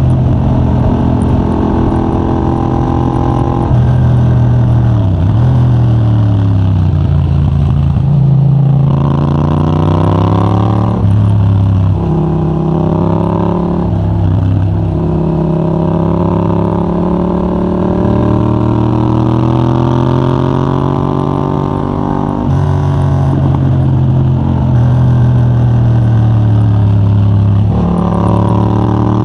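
Yamaha MT-07's 689 cc parallel-twin engine through a de-catted Mivv GP Pro titanium exhaust with a 35 mm dB killer, ridden hard. The engine note climbs under acceleration and breaks at gear changes, then falls away off the throttle, several times over.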